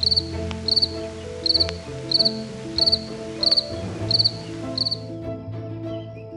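Cricket chirping: short high trilled chirps, about one every 0.7 seconds, stopping about five seconds in. Soft background music plays underneath.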